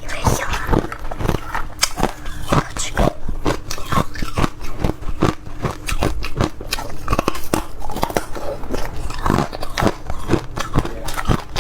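A person biting and chewing ice close to the microphone: a dense, irregular run of sharp cracks and crunches.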